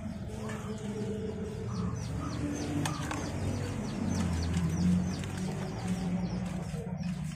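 Small birds or chicks chirping in a quick run of short high notes, about three to four a second, over a low rumble. A metal ladle stirs food in an aluminium pot, with a couple of clicks about three seconds in.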